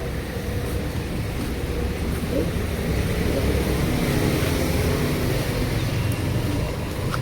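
Steady low rumble of a motor vehicle's engine, with faint voices in the background.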